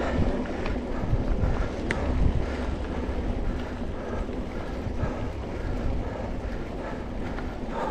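Wind buffeting the microphone over the steady rumble of a mountain bike rolling along a dirt trail.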